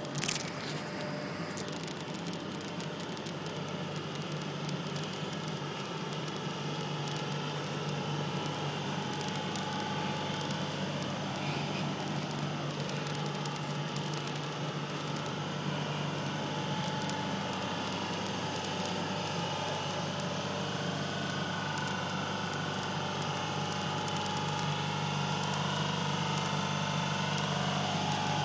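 Renfe Cercanías electric commuter train running past at close range: a steady rolling rumble of wheels on rails, with a faint whine heard in the second half.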